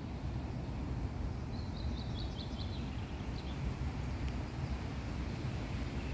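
Steady low outdoor rumble, with a small bird singing a quick run of short high chirps that step down a little in pitch, from about a second and a half in.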